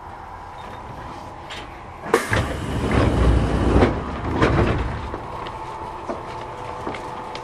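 Inside a Kintetsu 1000 series commuter train car, a steady electrical hum. About two seconds in it is broken by a sudden clunk and about three seconds of loud rumbling and rattling, which then fade back to the hum.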